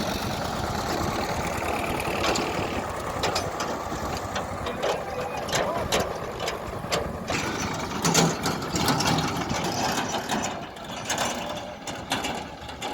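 Tractor engine running steadily, with scattered metallic clanks and knocks and voices in the background.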